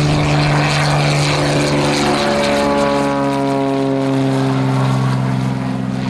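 Propeller airplane engine running at full throttle, loud and steady, its pitch dropping a little partway through.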